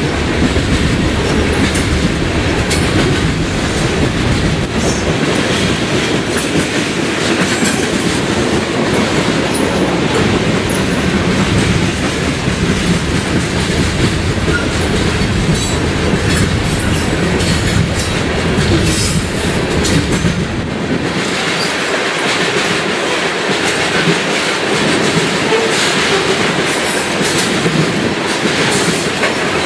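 Coal cars of a freight train rolling past, their steel wheels clickety-clacking over the rail joints in a loud, steady run. The deep rumble thins about two-thirds of the way through.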